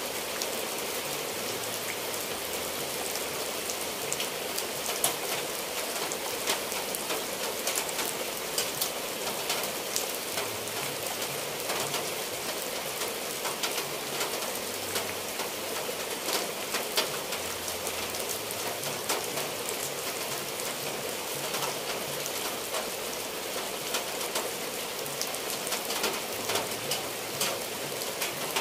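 Steady rain falling on tiled roofs and dripping off the eaves, with many sharp drop taps scattered all through it.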